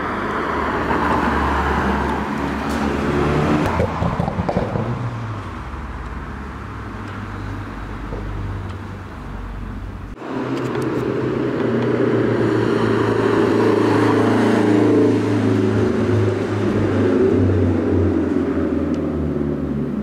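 Car engines as cars pull away, one passing with a rise and fall in pitch about four seconds in. After a sudden change about halfway through, another car's engine runs loud and fairly steady.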